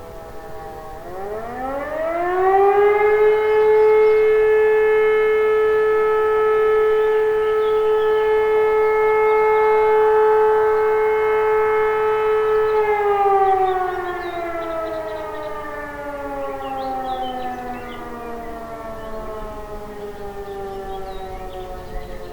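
E57 electro-mechanical siren sounding a fire-alarm blast. About a second in it spins up with a rising wail and holds one steady tone for about ten seconds. It then winds down in a long, slow falling glide as the rotor coasts to a stop.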